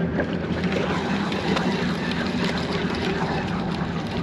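Fishing boat's engine running steadily, a low even hum, with wind noise over it.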